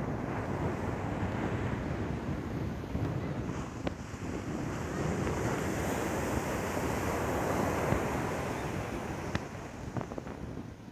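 Sea surf breaking and washing on a beach, with wind buffeting the microphone. The wash swells through the middle and eases off near the end.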